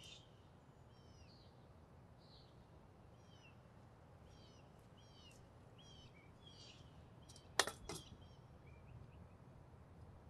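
Faint outdoor ambience of small birds chirping, many short high chirps repeating throughout over a low steady rumble. Two sharp clicks a third of a second apart about three-quarters of the way through are the loudest sounds.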